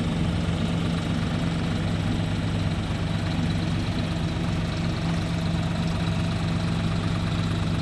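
Diesel engine of the farm machinery idling steadily at an even, unchanging speed.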